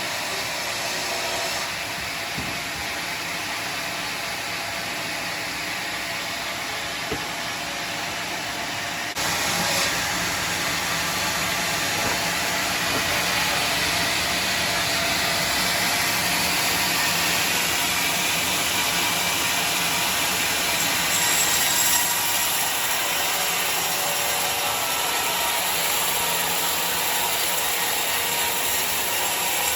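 Sawmill saw and its machinery running steadily. About nine seconds in the sound steps up suddenly, louder and brighter, and stays that way.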